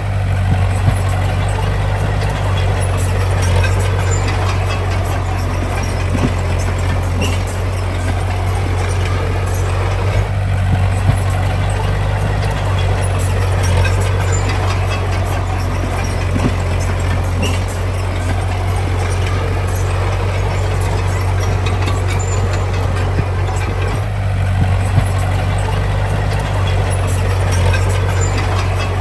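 Heavy diesel earthmoving machinery running steadily at a construction site, with a deep engine hum and scattered short metallic clanks.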